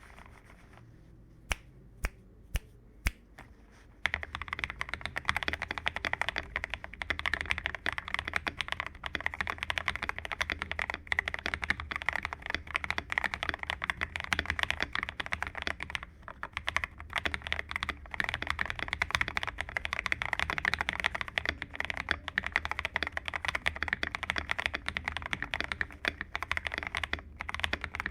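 Custom MMD75 mechanical keyboard with lubed AKKO CS Radiant Red linear switches and XDA-profile keycaps: four separate key presses about half a second apart, then from about four seconds in, fast continuous typing.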